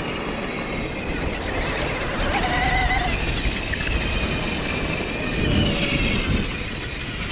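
Rushing wind and tyre noise from a fat-tire electric mountain bike ridden at a steady cruising speed, with a brief faint tone about two and a half seconds in.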